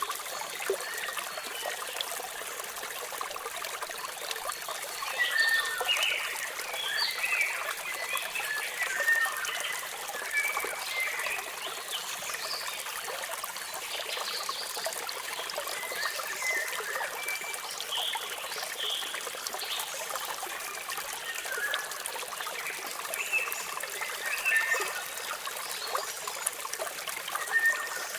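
Waterfall water running in a steady hiss, with birds chirping in short bursts over it, busiest about five to ten seconds in and again later.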